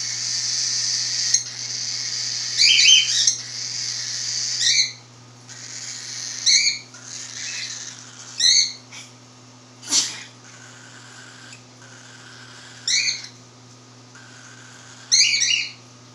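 Baby cockatiel begging for food: a continuous raspy hissing for the first few seconds, then short, sharp squawks about every two seconds.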